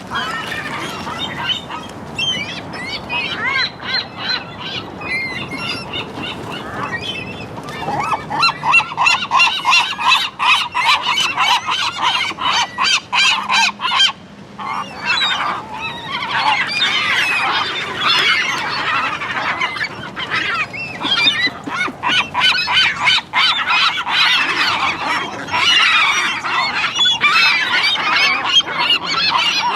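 A flock of seagulls calling over one another in a dense, steady chorus of squawks, getting louder and busier about a quarter of the way in.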